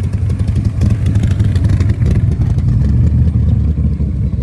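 A loud vehicle engine running close by with a deep, heavy rumble, holding steady throughout.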